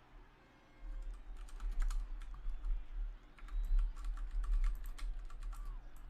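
Rapid, irregular typing on a computer keyboard, starting about a second in, over a low steady hum.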